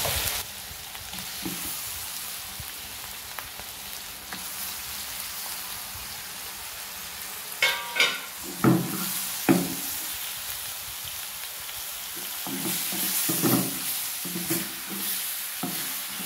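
Onion-tomato masala with raw chicken pieces sizzling in a clay pot (mann chatti), a steady frying hiss. A wooden spatula stirs and scrapes against the clay, with three or four sharp knocks about halfway through and more scraping strokes near the end.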